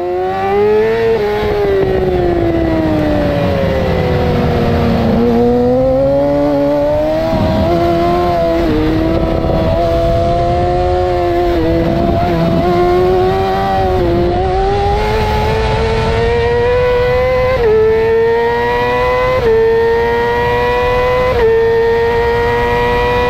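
2008 Yamaha R6 inline-four engine heard from onboard at racing revs, dropping in pitch as the bike slows in the first few seconds, then pulling hard with a string of quick upshifts about every two seconds in the second half. A steady wind rush runs underneath.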